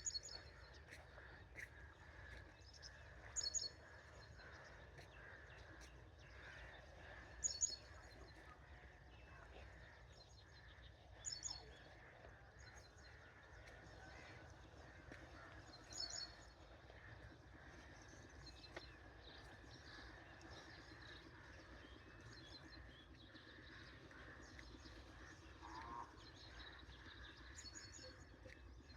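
Birds chirping outdoors: short, high calls repeat every few seconds, about six clear ones in all, over a faint, steady background of rural ambience.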